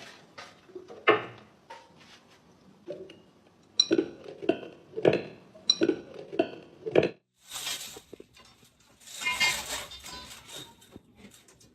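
A string of clinks and knocks from hard household objects, dishes or utensils knocking together, then a longer rattling clatter about eight seconds in.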